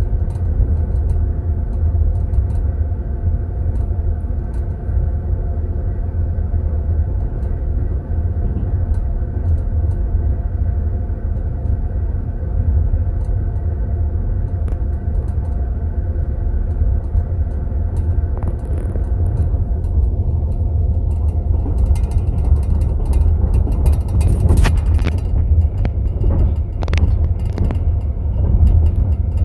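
Passenger train running, heard from inside a sleeping compartment: a steady low rumble from the wheels and carriage, with sharp clicks and rattles in the last third.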